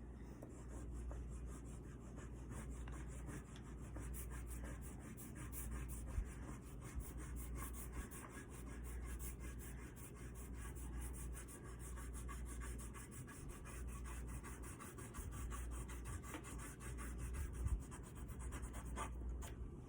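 Dark blue oil pastel scribbling on paper in quick back-and-forth strokes, a faint, continuous scratchy rubbing.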